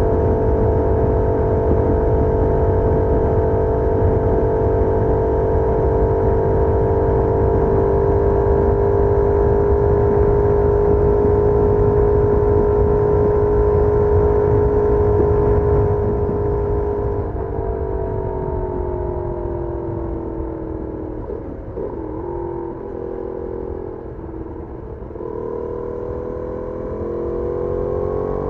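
Benelli Leoncino 800's parallel-twin engine through its stock exhaust, holding a steady cruise with slowly rising revs; about 17 seconds in the throttle closes and the revs fall, and near the end they climb again as the throttle reopens. Wind rushes over the microphone throughout.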